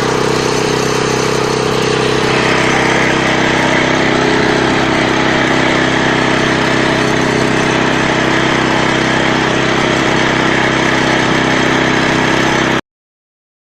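Walk-behind tractor engine running steadily. The sound cuts off abruptly near the end.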